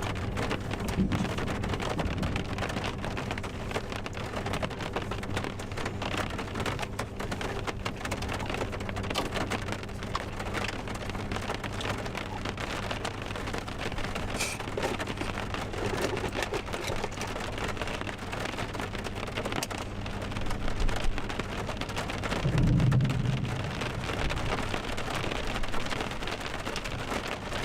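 Steady heavy rain with many small drop impacts. A low thunder rumble swells up near the end, over a faint steady low hum.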